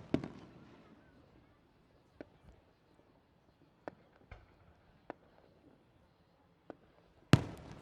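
Fireworks exploding: a bang just after the start with a trailing rumble, a few faint scattered pops, then a loud boom near the end that rumbles away.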